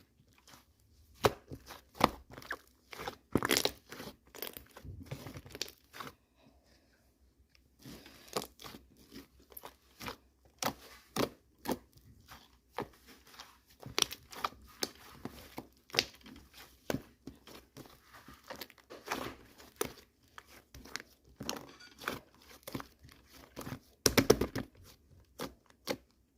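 Irregular crinkling and tearing handling noises with sharp taps, stopping briefly about six seconds in.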